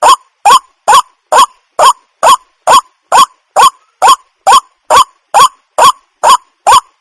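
Waterhen calling: a short rising note repeated about twice a second at a perfectly even pace, every call alike.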